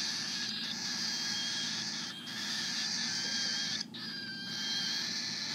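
Baby cockatiel chicks begging with a continuous raspy, high-pitched hiss that breaks off briefly a few times. There is one short click a little before 4 seconds in.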